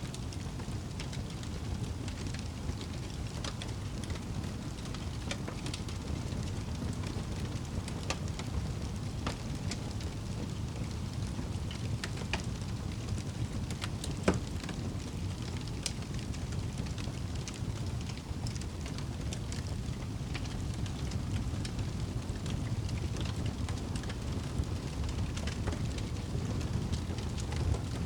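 Wood fire burning in a fireplace: a steady low rushing with scattered crackles and pops, one sharper pop about halfway through.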